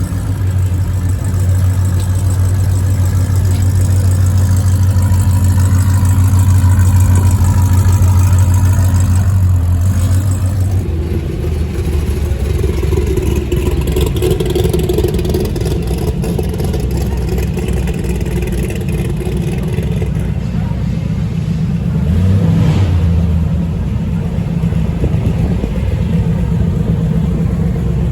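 Car engines running: a deep steady engine note for the first ten seconds or so, then a different engine sound, with a brief swell about 22 seconds in.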